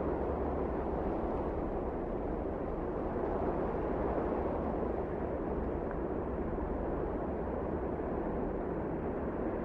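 Steady wind, a deep even rush without gusts or breaks.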